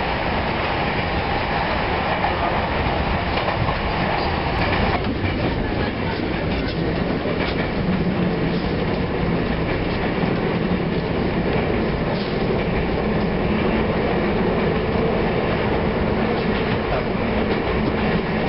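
Kotoden electric train running, heard from inside the passenger car: a steady rumble of wheels on the rails. The noise changes abruptly about five seconds in.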